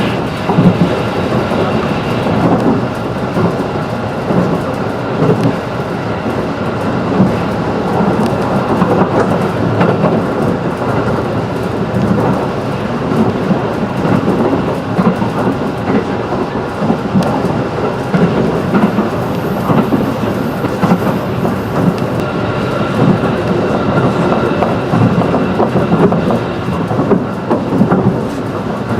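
Running noise of a 211 series electric train heard from inside the car: a steady rumble of wheels on the rails, with faint steady tones above it and scattered knocks.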